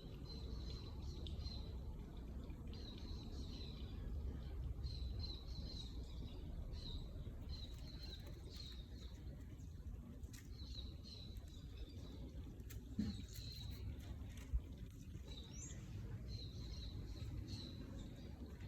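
Small birds chirping in repeated runs of short, high chirps, with one rising whistle near the end, over a steady low rumble of outdoor background noise. Two brief knocks about two-thirds of the way through.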